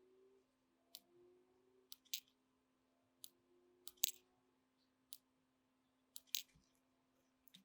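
Sparse sharp clicks and snips of small hand tools, about ten in all at irregular intervals, over a faint steady hum.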